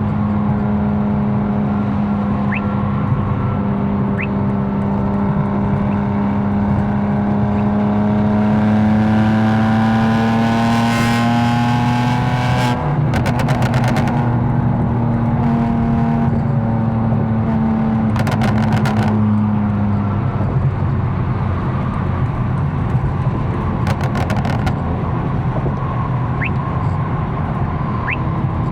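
Tuned BMW M4's engine droning steadily at highway cruise over tyre and road noise. Its pitch rises slightly before the drone eases off about twenty seconds in. Three brief runs of rapid ticking cut in along the way.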